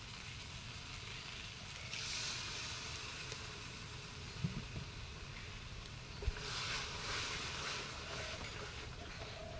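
Leafy greens and potatoes sizzling in a metal kadai over a wood fire, a steady hiss that swells twice, with a couple of soft knocks.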